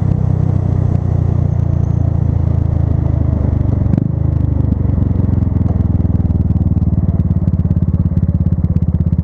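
Buell Blast's single-cylinder engine idling steadily with an even pulsing beat. A single brief knock about four seconds in.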